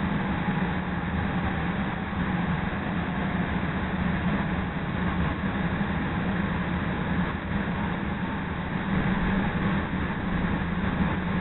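A CTA Red Line rapid-transit train running along the track, heard from inside the car as a steady rumble with a low hum.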